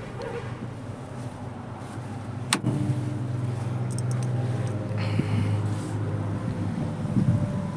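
Vehicle engine running at a steady idle hum, with one sharp click about two and a half seconds in, after which the hum is a little louder.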